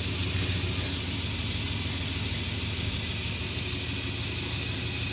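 Truck engine running steadily with a low hum as the truck creeps slowly forward.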